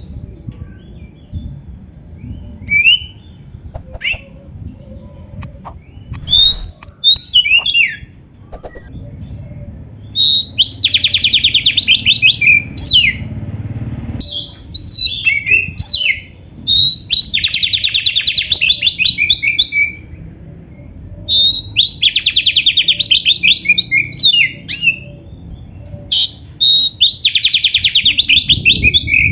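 Oriental magpie-robin (kacer) singing loudly: scattered whistled notes at first, then four long, very rapid trills of two to three seconds each, linked by slurred whistles.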